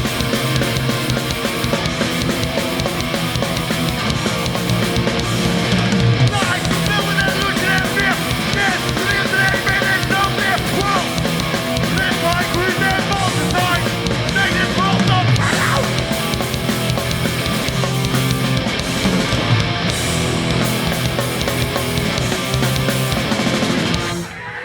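Live hardcore punk band playing loud: distorted guitars, bass and drums, with vocals over the middle stretch. The music drops out briefly near the end, then picks up again.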